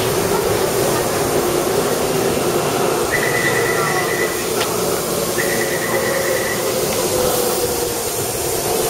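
Taipei Metro C301 train running, a steady rumble with a hum. Two steady high tones of about a second and a half each come about three and five and a half seconds in.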